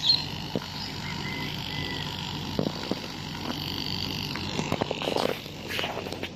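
An engine running steadily, with scattered knocks and clicks.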